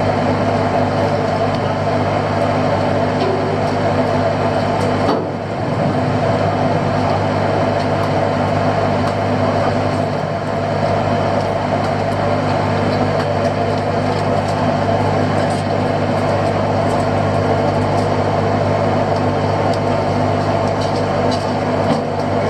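Fishing boat's engine running with a steady drone, briefly dipping about five seconds in.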